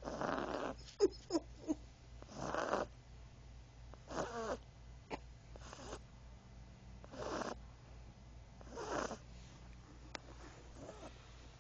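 Doxle puppy snoring in its sleep: a raspy breath about every one and a half to two seconds, with a few short squeaky snuffles about a second in.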